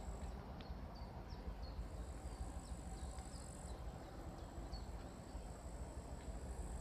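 Outdoor ambience: small birds giving short, quick, falling chirps about a dozen times over the first five seconds, over a constant low wind rumble on the microphone, with a thin high buzz that stops and starts.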